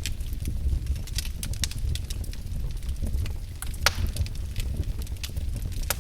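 Wood fire in a fireplace crackling: irregular sharp pops over a steady low rumble, with one louder pop a little before four seconds in.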